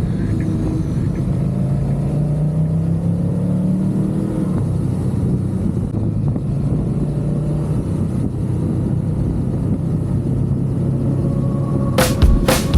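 Twin-cylinder adventure motorcycle engine running under way with wind rumble, its note rising in pitch over the first few seconds as it accelerates, then holding steady. Music with drum hits cuts in near the end.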